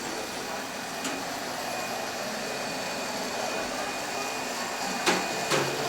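Steady background din of a large, busy indoor model-railway exhibition hall, with two sharp clacks about half a second apart near the end.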